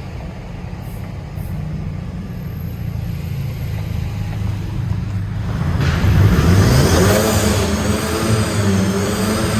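Sports car engine running at low revs, then about six seconds in it gets much louder as the car accelerates, its pitch rising and falling.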